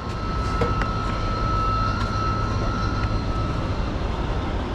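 Diesel semi-truck engine idling steadily, a low hum with a faint high whine over it that fades out near the end.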